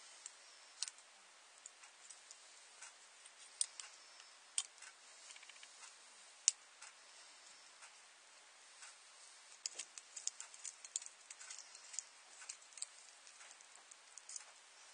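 Faint, irregular clicks and light taps of small hard objects being handled, over a low steady hiss.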